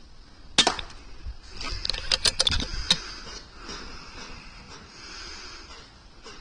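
A single sharp crack from a .22 air rifle shot about half a second in, followed a second later by a quick run of sharp clicks and rattles lasting about a second and a half.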